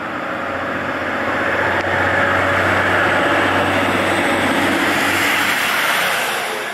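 A train passing at speed on the main line, its rushing noise swelling to a peak for a few seconds and then easing off near the end.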